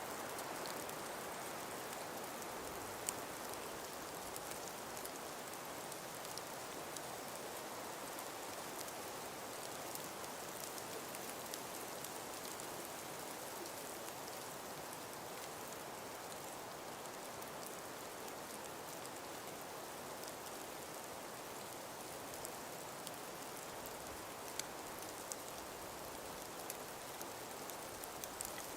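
Calm breeze through a frost- and ice-covered forest: a steady, even hiss with scattered faint ticks and clicks.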